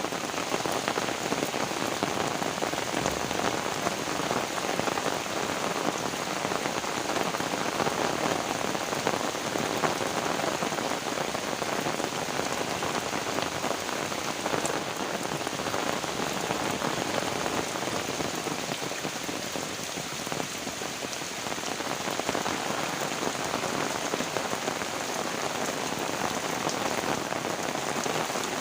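Heavy rain falling steadily, a dense, even hiss of drops hitting surfaces, easing slightly for a moment about two-thirds of the way through.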